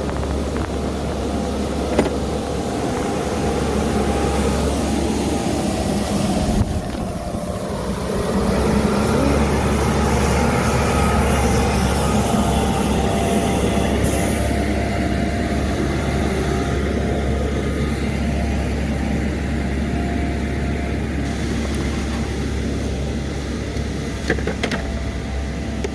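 Steady city street traffic noise, vehicles running and passing.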